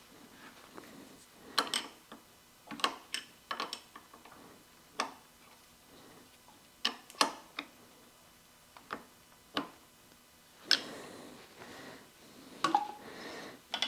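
Small hard objects being handled: about a dozen sharp clicks and light knocks at irregular intervals, some in quick clusters, with brief soft rustling near the end.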